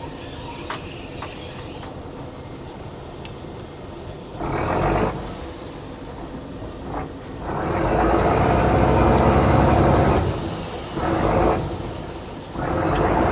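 Fishing boat machinery running under load, surging loudly four times, with the longest surge lasting about three seconds.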